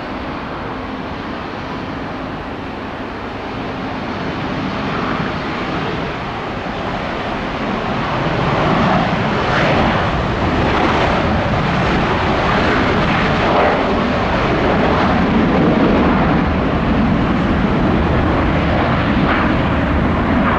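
McDonnell Douglas MD-88 freighter's two rear-mounted Pratt & Whitney JT8D turbofans at takeoff power, a steady jet roar that grows louder about four and eight seconds in and then stays loud as the aircraft rolls down the runway and lifts off.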